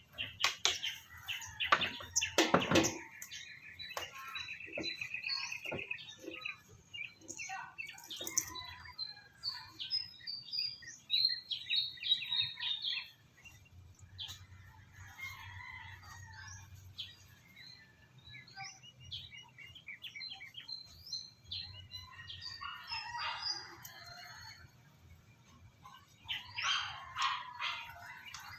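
Small birds chirping, with short high calls throughout and one rapid trill a few seconds in. A few sharp knocks or clatters come in the first three seconds.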